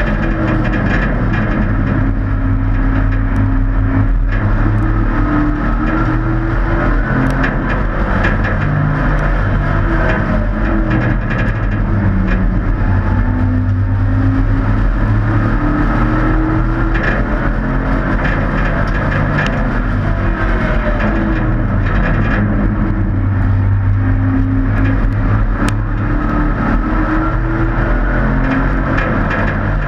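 Several race truck engines running together at racing speed around an oval, their pitch repeatedly rising and falling as they accelerate and lift. The sound is loud and steady.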